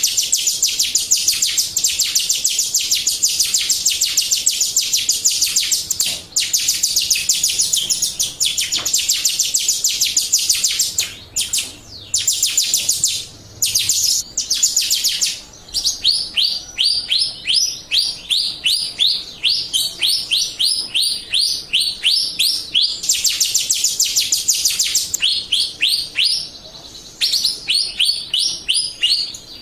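Jalak Rio starling song: rapid high-pitched chattering trills. About halfway through it changes to a slower string of downward-sliding chirps, a few a second, with short breaks.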